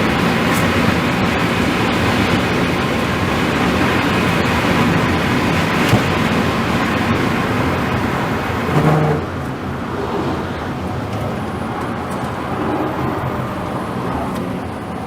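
A car driving at speed, a steady rush of road and wind noise with no clear engine note. About nine seconds in the sound changes and becomes duller.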